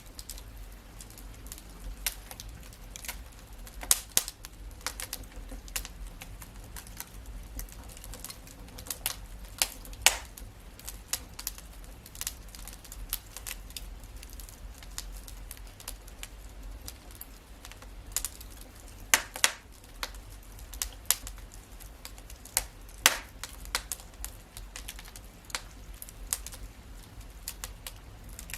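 Wood fire crackling: irregular sharp pops and snaps, several a second, with a few louder pops, over a faint low rumble of the burning fire.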